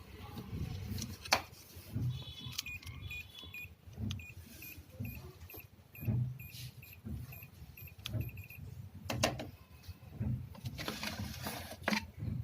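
Short electronic beeps repeating about three times a second in two runs, with a few sharp clicks and a low pulsing sound underneath. This is typical of a window AC control board's buzzer beeping as its buttons are worked after a CH error repair.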